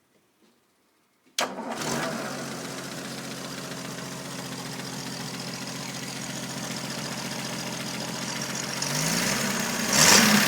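1979 Land Rover Series III's 2.6-litre straight-six petrol engine comes in suddenly about a second and a half in, then idles smoothly and evenly with a burbling exhaust through a new muffler. Near the end the revs rise. The engine has just been tuned, with valve clearances, carburettor and ignition set.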